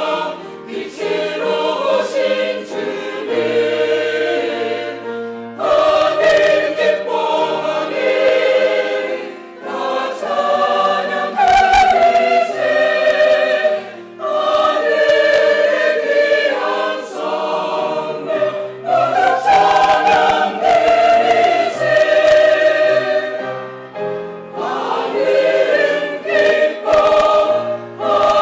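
Church choir singing a Christmas cantata in Korean with accompaniment, in phrases of a few seconds each.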